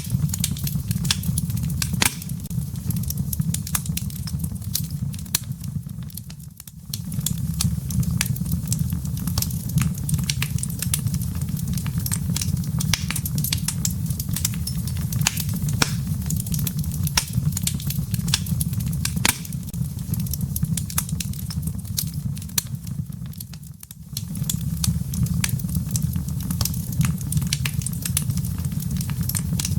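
Wood fire crackling in a fireplace: frequent sharp pops and snaps of burning firewood over a steady low rumble of flames. The fire briefly dips in level twice.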